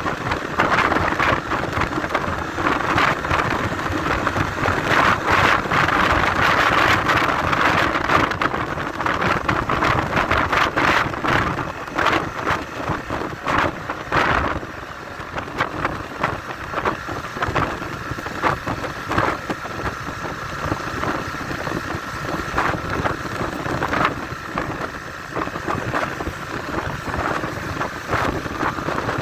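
Motorcycle riding along, its engine under heavy wind buffeting on the microphone, with frequent crackles; louder for the first half.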